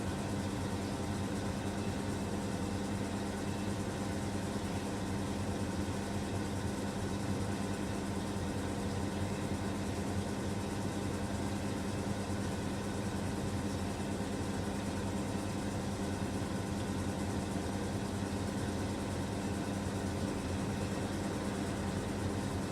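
First-generation SANYO coin-operated sneaker washing machine spin-drying, its motor running with a steady hum and a rough grinding rattle, which the uploader judges harmless.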